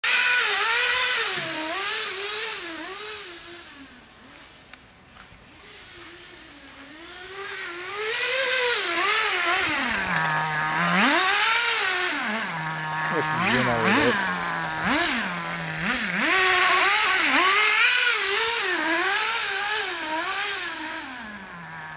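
Radio-controlled car's small engine revving up and down with the throttle. It grows faint a few seconds in, as the car moves away, then comes back loud and keeps rising and falling, sometimes dropping low toward idle.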